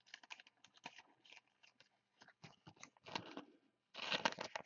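Trading cards being handled: faint scattered rustles and small clicks, growing busier near the end.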